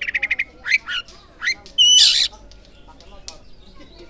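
Oriental magpie-robin song used as a training lure: a quick run of about eight clipped notes at the start, a few whistled, sliding phrases, and a loud harsh rasping burst about two seconds in.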